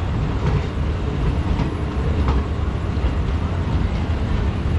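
Indian Railways passenger trains running on adjacent tracks, heard from an open coach doorway: a steady low rumble of wheels on rail with a few sharp wheel clicks.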